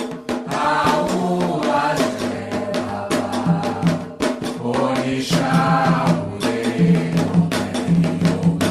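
Candomblé chant to Oxalá: voices singing a Yoruba-language song over steady percussion with many rapid strikes.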